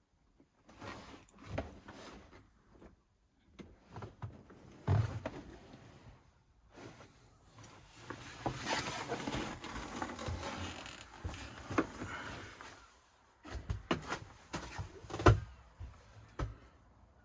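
Irregular knocks and bumps, with a longer stretch of scraping and rustling in the middle, as someone moves about aboard a small sailing yacht and handles its fittings. Two sharp knocks, about 5 s and 15 s in, are the loudest.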